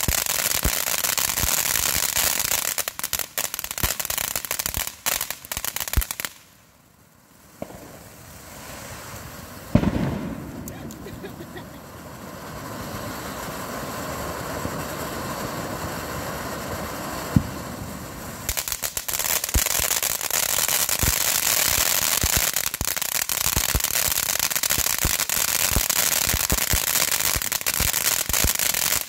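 Ground firework fountains going off, a dense rapid crackle of popping sparks that dies away about six seconds in. A sharp bang comes about ten seconds in, followed by a steadier hiss with one pop, then the dense crackling starts again at about eighteen seconds and cuts off suddenly near the end.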